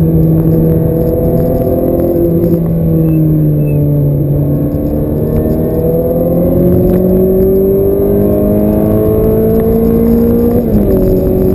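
Ferrari F430's V8 engine heard from inside the cabin under way on track. Its pitch holds, eases slightly, then climbs steadily for several seconds as the car accelerates in gear, and drops sharply near the end at an upshift.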